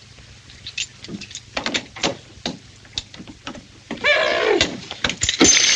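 A series of sharp metallic knocks and clanks on a stubborn plumbing pipe. About four seconds in there is a short sliding vocal cry. Near the end, water starts gushing out in a steady rush.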